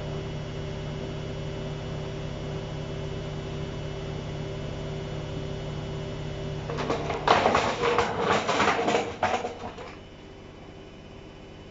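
Washing machine running with a steady hum, then about three seconds of loud, irregular rattling and rushing noise, after which it settles to a quieter background.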